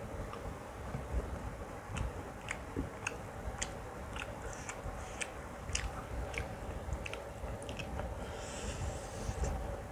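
Close-miked chewing and mouth noises of someone eating a mouthful of mutton curry and biryani, with irregular wet clicks and smacks about once or twice a second over a steady low background hum.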